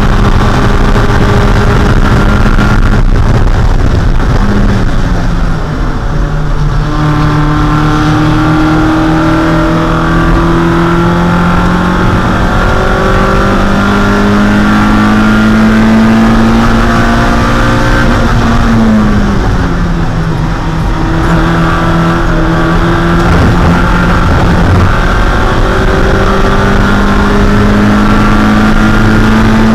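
A 1.6-litre Mazda Miata four-cylinder race engine running hard, its revs climbing slowly over long stretches. The pitch drops abruptly twice, about five seconds in and again about two-thirds of the way through, then starts climbing again.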